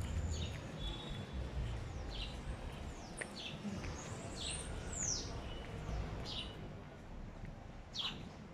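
Small birds chirping: short, high, falling chirps about once a second, over a low steady rumble.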